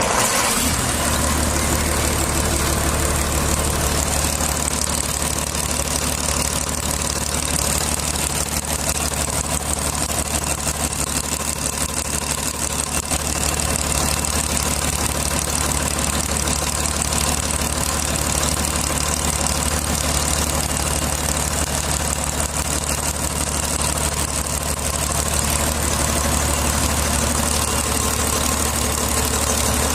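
Ashok Leyland marine diesel engine running steadily at idle just after starting, settling within the first second.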